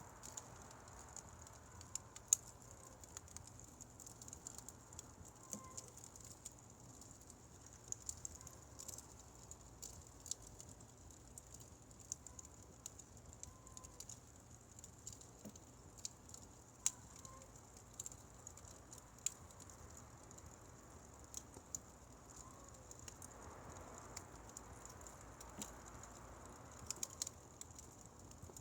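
Firewood fire burning, crackling faintly with scattered sharp pops and snaps over a steady high hiss.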